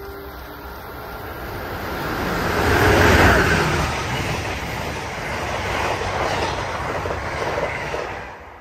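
A train passing by: a rushing rail noise that builds to its loudest about three seconds in, stays loud, then drops off sharply near the end.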